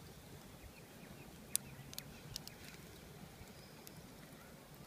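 Wood fire crackling faintly, with a few sharp pops about one and a half to two and a half seconds in, over a low steady outdoor hiss.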